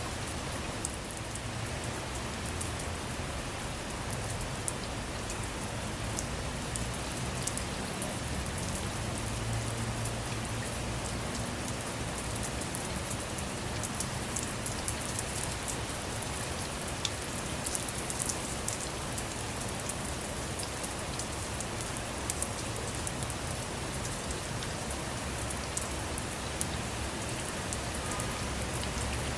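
Steady rain falling on a car's roof and windows, a constant hiss broken by many sharp ticks of single drops.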